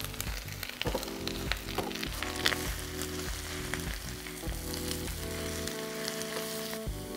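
Baby spinach sizzling in butter and onions in a hot sauté pan, stirred with a silicone spatula as the leaves wilt, with a few light scrapes and clicks of the spatula in the first couple of seconds.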